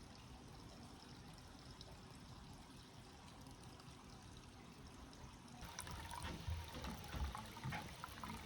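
Water running and trickling steadily. About five and a half seconds in, it grows louder, with irregular knocks and splashes.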